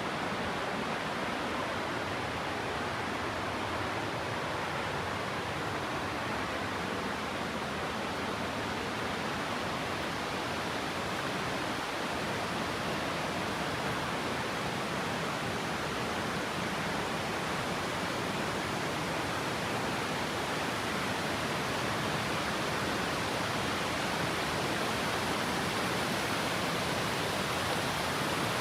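Waterfall: a steady rush of falling water, growing slightly louder near the end.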